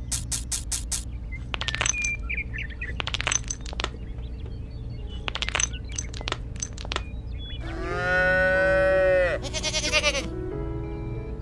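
A cow mooing once, for about a second and a half, past the middle. Under it, background music and a scatter of light clicks as small pebbles are set down in the first part.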